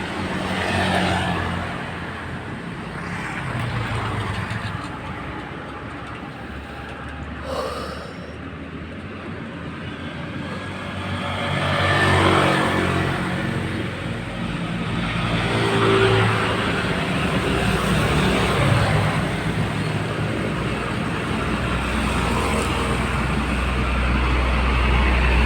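Road traffic with heavy vehicles passing one after another. Their engines and tyres swell and fade several times, with a long, loud pass near the end.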